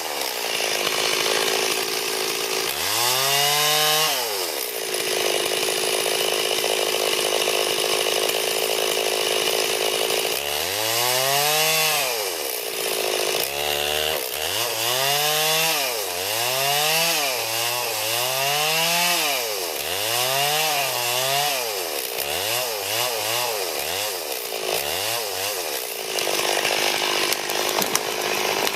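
Stihl 440 two-stroke chainsaw cutting wood. It runs at a steady full throttle for several seconds, then is revved up and let back down about ten times in quick succession through the second half.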